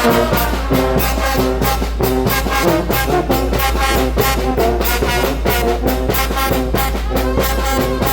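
Brass band music with trombones and trumpets over a steady, quick beat of drums or cymbals.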